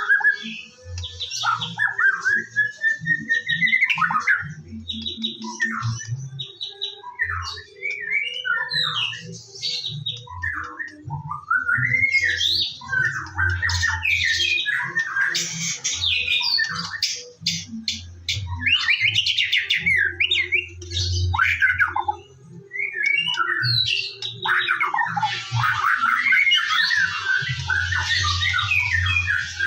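White-rumped shama (murai batu) in full song: a long, varied run of loud whistles, rising and falling slurs, and fast rattling trills, with hardly a pause.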